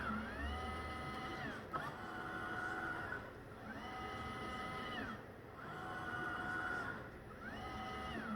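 Roomba S9+ robot vacuum running on carpet, its motors whining in a pitch that rises, holds and falls again in cycles about every two seconds. This is the sound of its drive wheels spinning up and slowing down without traction.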